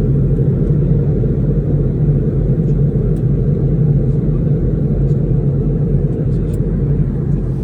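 Steady low rumble of a vehicle in motion, with a few faint ticks above it; it drops away suddenly at the very end.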